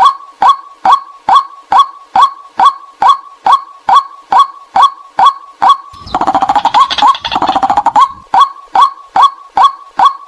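White-breasted waterhen call, a lure call: short, sharp notes repeating evenly about twice a second, breaking into a faster, denser run of calls for about two seconds in the middle before the even rhythm returns.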